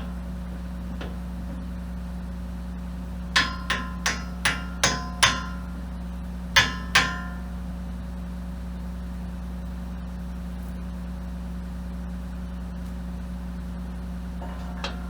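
Hammer blows on a steel pin, driving out the pin of an excavator's thumb: a run of six ringing metal-on-metal strikes, then two more, over a steady low engine idle.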